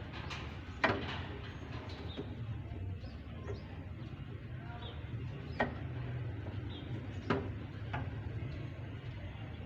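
Three sharp knocks, about a second, five and a half and seven seconds in, over a steady low hum, with faint short chirps of birds.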